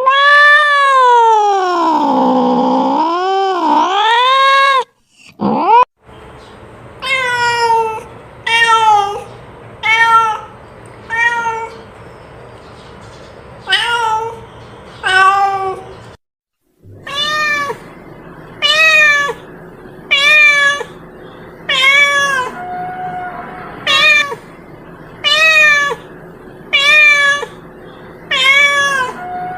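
Cat meowing. It opens with one long yowl that wavers up and down in pitch, then gives a run of short meows about one every second and a half. After a brief cut, another run of short meows follows over a faint steady hum.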